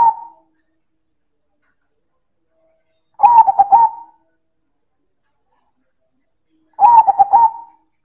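Zebra dove (perkutut) singing its loud cooing song. The tail of one phrase ends right at the start, then two full phrases of quick rolling coos follow about three and a half seconds apart, each lasting about a second.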